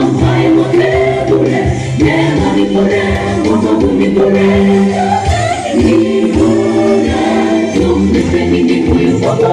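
Gospel music: a choir singing over a steady low backing.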